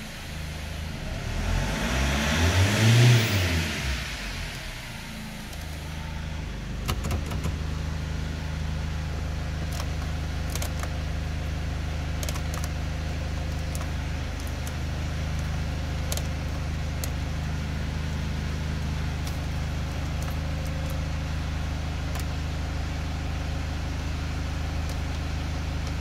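SsangYong Actyon engine revved once, its pitch climbing and falling back over about three seconds, then idling steadily, heard from inside the cabin. A few light clicks sound over the idle.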